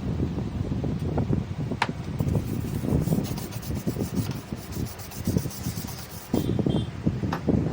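Close rubbing and scraping handling noise with small knocks. A fast run of faint high ticks comes from about two seconds in to about six seconds, followed by a brief high tone.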